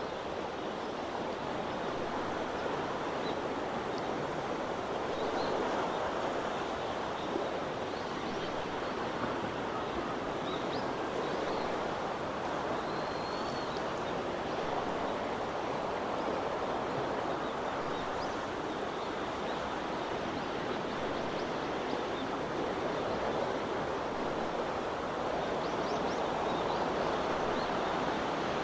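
Underwater sea ambience: a steady wash of water noise that swells slightly in places, with faint scattered clicks and small bubbly chirps.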